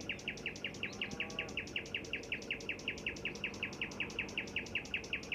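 Male common nightingale singing a long, fast run of repeated short notes, about eight a second, ending with a single higher note near the end.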